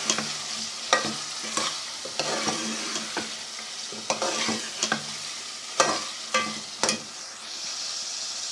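Taro root pieces frying in masala in a metal pot, sizzling steadily as they are sautéed (bhuna). A steel ladle stirs and scrapes against the pot with about ten irregular knocks. The stirring stops about a second before the end while the sizzle carries on.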